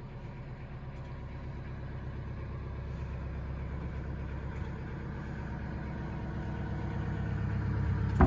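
Narrowboat diesel engine idling steadily, its hum growing gradually louder. A sharp knock comes right at the end.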